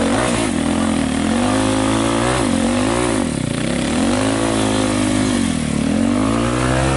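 Dirt bike engine revving up and falling back again and again, its pitch rising and dropping every second or two as the throttle is worked.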